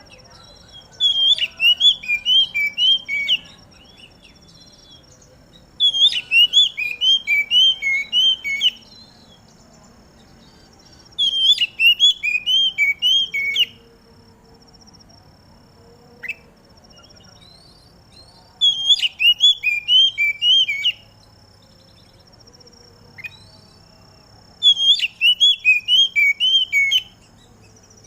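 Oriental magpie-robin (kacer) singing: five phrases of quickly repeated, falling whistled notes, each phrase two to three seconds long, with pauses of a few seconds between them.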